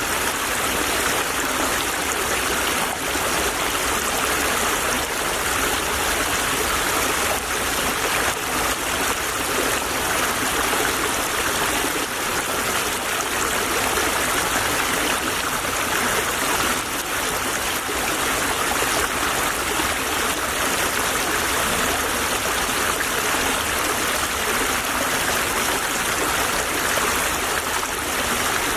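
Small stream flowing steadily over stones, a continuous babbling trickle of water.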